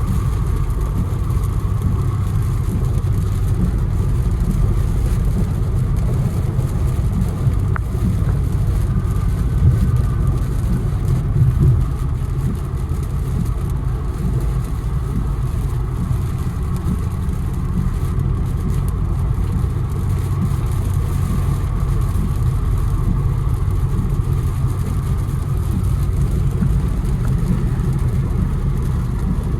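Infiniti Q60 driving, a steady low engine drone with road noise. It swells a little about ten to twelve seconds in, then settles slightly lower.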